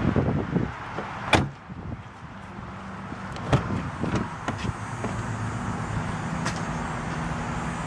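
A car door on a 1990s Mercedes-Benz S500 shutting with a sharp clunk a little over a second in, followed by a second knock and then a steady low hum.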